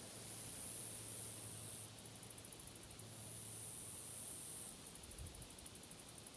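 Forest ambience: a steady high-pitched hiss, with a fast pulsing high trill that comes in twice for about a second at a time. A faint low hum runs through the first half, and there is a soft low thump near the end.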